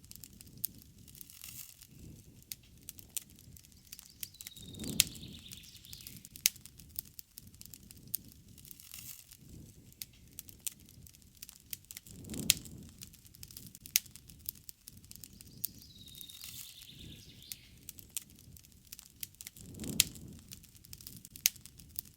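Wood campfire crackling with frequent sharp pops and snaps over a low rumble of the flames that swells three times, about every seven and a half seconds.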